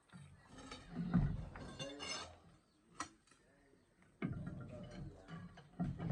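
Indistinct talking in two stretches, with a single sharp metallic clink about three seconds in.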